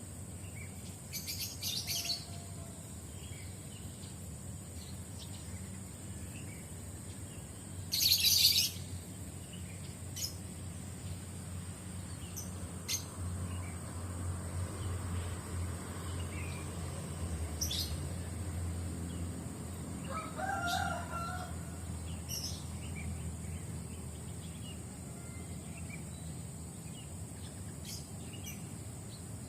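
Morning birdsong: scattered short chirps, with one loud sharp call about eight seconds in and a rooster crowing for about a second past the twenty-second mark. Under them run a steady low rumble and a constant high-pitched hiss.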